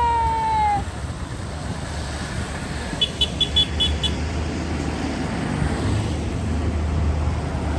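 Passing tractor-run vehicles running with a steady low engine rumble. A horn sounds once, for about a second, at the start, and about three seconds in there is a quick run of about six short, high beeps.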